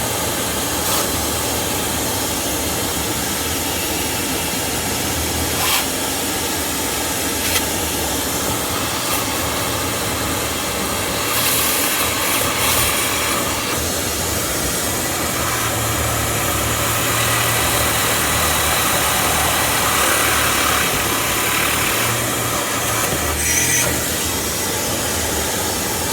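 A motor running steadily with a low hum and hiss, with a few short knocks and clicks over it.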